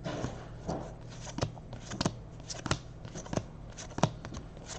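Stack of 2018-19 Panini Hoops basketball cards being handled and flipped through by hand: a string of short, irregular card flicks and slides, about ten in all.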